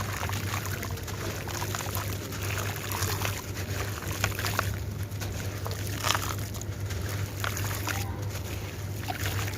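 Wet sand-cement chunks being crushed and crumbled in water: continuous gritty crackling with frequent sharp crunches and watery pouring and trickling sounds, over a steady low hum.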